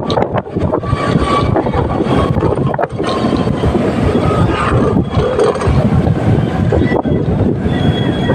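Motorcycle running under way, its engine and road noise mixed with wind buffeting the microphone.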